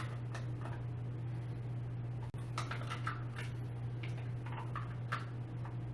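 Scattered light clicks and taps of chair parts and hardware being handled and fitted during assembly, over a steady low hum.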